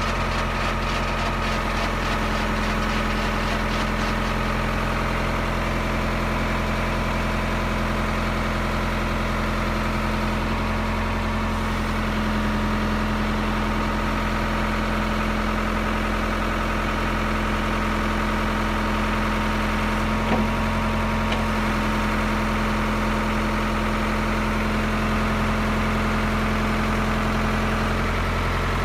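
Ford 655C backhoe's diesel engine idling steadily, with one brief click about twenty seconds in.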